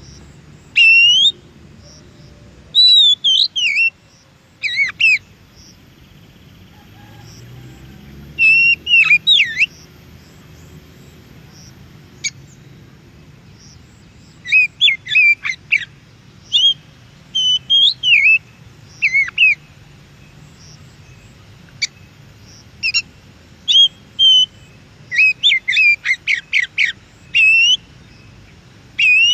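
Oriental magpie-robin singing: short bursts of loud, rapidly rising and falling whistled notes and chattering phrases, separated by pauses of a second to several seconds.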